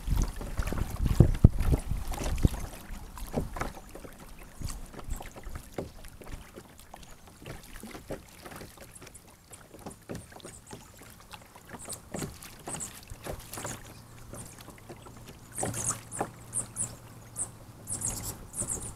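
Sit-on-top kayak on a lake: paddle splashes and small knocks against the plastic hull, with a loud low rumble of wind on the onboard camera's microphone in the first couple of seconds. Short high bird chirps come in during the second half.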